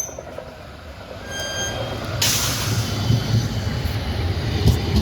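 A West Midlands Metro tram running at the stop: a low rumble builds from about two seconds in, with a sudden hiss at the same moment that fades away, and faint thin wheel tones.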